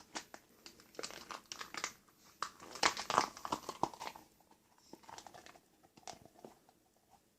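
Soft rubber 2.2 RC crawler tire being worked inside out by hand: a run of irregular scuffs and clicks, busiest in the first half and thinning out near the end.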